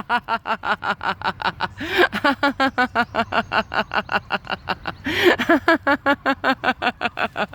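A person laughing hard in a rapid, steady "ha-ha-ha", about five pulses a second. The laughter breaks for a gasping in-breath about two seconds in and again about five seconds in. It is deliberate laughter-yoga laughter, kept going on purpose.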